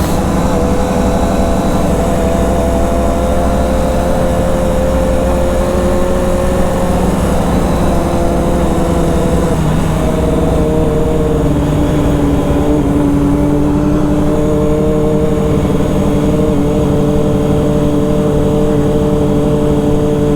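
Motorcycle engine running at a steady road speed with loud wind rush on the microphone; the engine note shifts about halfway through and settles at a new pitch.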